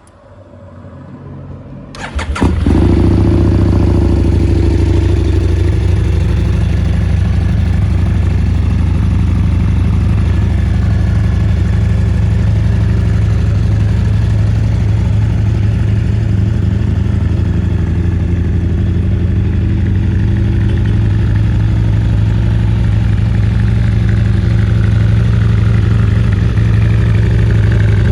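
2012 Husqvarna Nuda 900's parallel-twin engine being started: the starter cranks, the engine catches about two seconds in, then it idles steadily.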